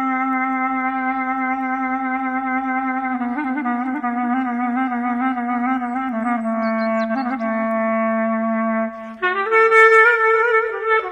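Solo clarinet playing a slow melody: a long held low note, then a wavering run of short pitch changes, then a leap to a higher held note about nine seconds in.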